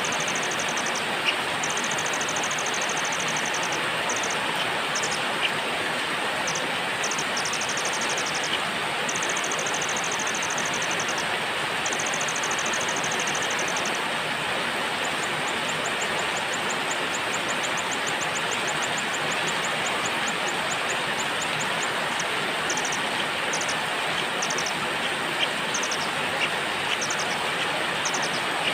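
Steady rain hiss, with small birds giving runs of rapid high trills over it and a few sharp drip-like ticks.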